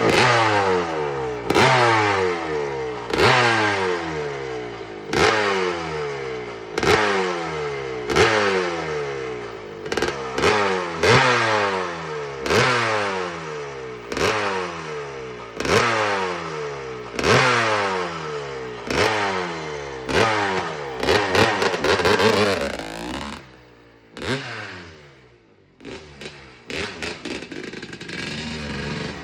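1978 Yamaha YZ250's single-cylinder two-stroke engine, just fired from cold on a little choke, revved in repeated throttle blips about every second and a half, the revs falling away after each. About three quarters of the way in it drops to a quieter, uneven idle for a couple of seconds before the blipping starts again.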